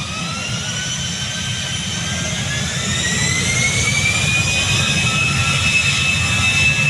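Airbus A320's CFM56 jet engines spooling up to takeoff thrust, heard from inside the cabin: a rising whine that levels off about five seconds in, over a steady rumble that grows louder.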